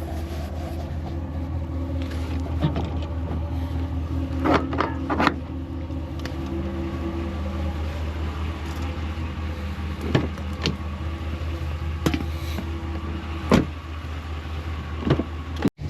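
Car running, heard from inside the cabin as a steady low engine and road drone, with a few scattered short clicks and knocks.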